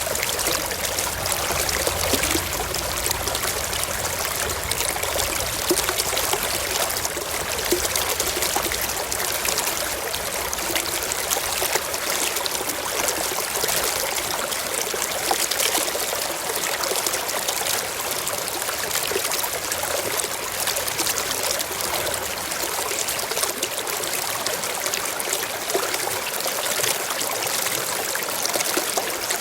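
A small forest stream flowing and trickling over rocks, a steady, even sound of running water.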